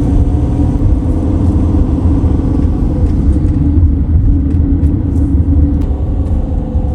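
Motorhome driving on a mountain road: a steady low rumble of engine and road noise, with a few faint clicks in the second half.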